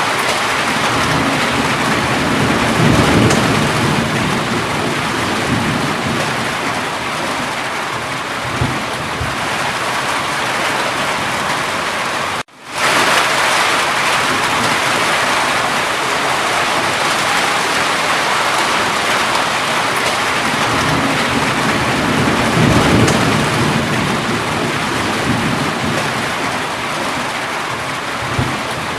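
Steady heavy rain falling, with two low rolling rumbles of thunder, one a few seconds in and one about twenty-two seconds in. The sound drops out abruptly for a split second about twelve seconds in, then the rain resumes.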